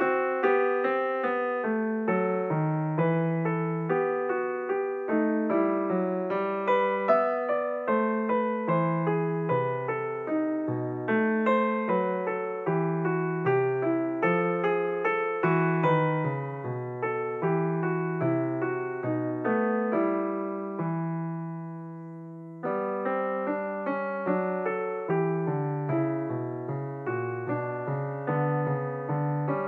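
Background piano music: a run of notes that fades on a held chord about twenty seconds in, then picks up again.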